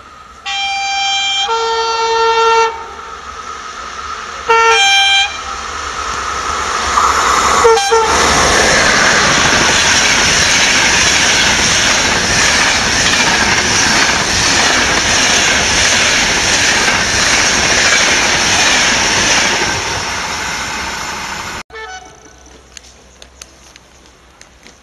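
A train sounds its horn, a two-note blast followed by a shorter one, then passes at speed with a loud, steady rushing noise. The noise builds over a few seconds, holds, and cuts off abruptly near the end.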